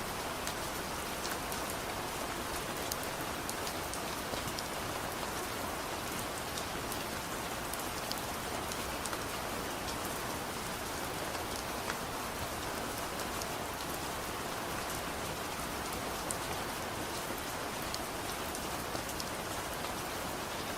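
Steady soft rain, an even dense patter with scattered small sharp clicks throughout.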